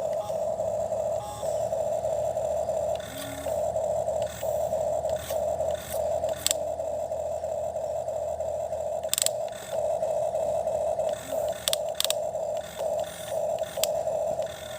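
Toy excavator's small electric motor whining in a string of short on-off runs as it is worked, with light clicks and scraping from the digging.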